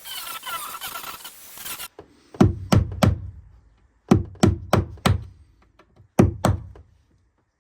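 A grinding noise with repeated high squeals stops about two seconds in, followed by heavy hammer blows on wood: three quick blows, then four, then two, each a sharp knock with a deep thud, as a damaged boat plank is knocked loose.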